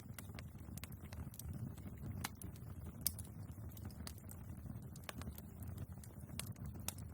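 Wood fire burning in a fireplace: a steady low rumble of flame with irregular sharp crackles and pops from the logs, one louder pop about three seconds in.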